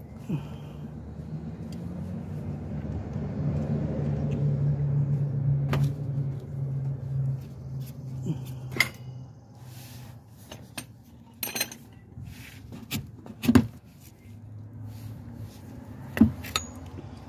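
Metal hand tools clinking and knocking on metal parts, a handful of sharp clinks in the second half with the loudest knock a little after halfway. Under the first half runs a low engine-like hum that swells and then fades out.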